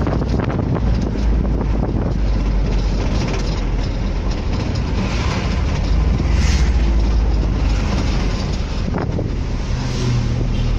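Wind buffeting the microphone over the steady rumble of a moving vehicle and the traffic around it.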